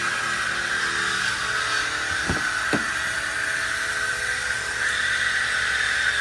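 2015 Maserati Ghibli's 3.0L twin-turbo V6 running steadily at idle, with a strong steady whine over the engine note. Two brief low knocks come a little over two seconds in.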